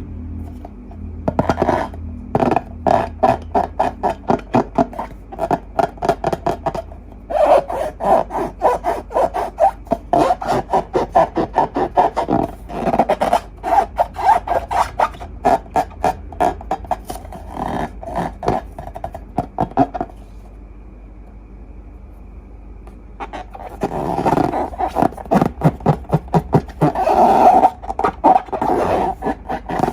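Slime being squished and worked by hand: quick runs of wet, sticky crackles and pops, several a second, with a pause of about three seconds around two thirds of the way through.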